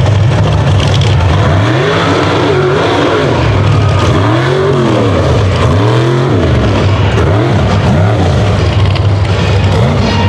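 Mega truck engine revving hard under racing throttle, its pitch climbing and dropping again and again in surges about a second apart.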